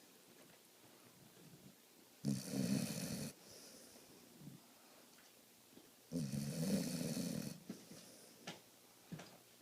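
A dog snoring in deep sleep: two snores, about two and six seconds in, the second a little longer, with faint breaths and small snuffles between.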